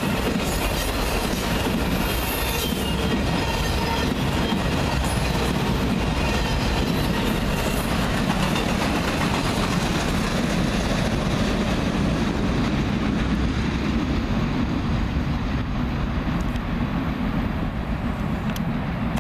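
Freight train of autorack cars rolling past, steel wheels running on the rails with some wheel squeal. The sound goes duller near the end as the last car passes and the train moves away.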